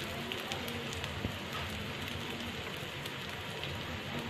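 Chicken shami kebab patties shallow-frying in hot oil in a non-stick pan: a steady sizzle with scattered small pops and crackles.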